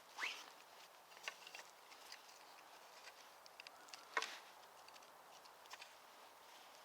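A few faint scrapes and clicks over near silence, as of a digger working forest soil around a metal find: a short rising scrape at the start and a sharper click about four seconds in.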